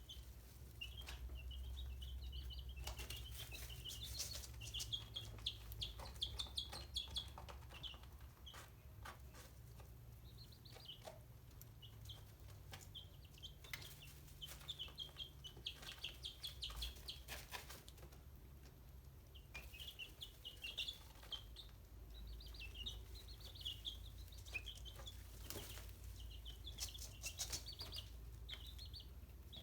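Chicks peeping: many short, high chirps in clusters, with scattered sharp taps over a low hum.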